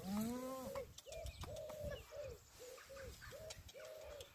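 A bird calling in a run of short, low coos, about three a second, after a longer call that rises and falls at the start.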